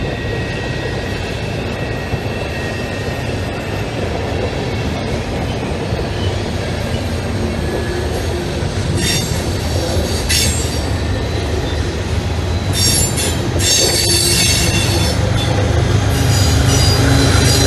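Freight cars of a CSX manifest train rolling past at close range: a steady rumble of steel wheels on rail. High-pitched wheel squeal comes in about nine seconds in and again, more often, from about thirteen seconds on, and the whole grows louder near the end.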